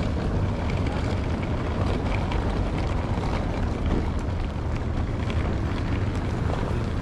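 Steady low engine rumble with wind on the microphone.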